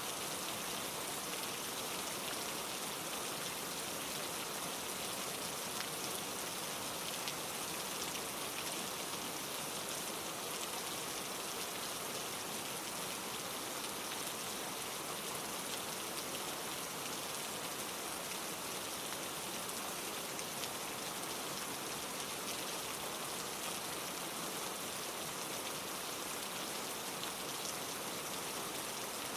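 Steady rain falling on leaves, a dense even hiss of drops with faint individual drop taps.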